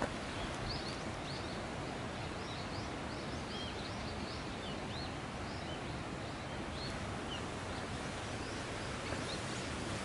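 Small birds chirping in quick, short, high notes over a steady outdoor background hiss; the chirps stop about seven seconds in.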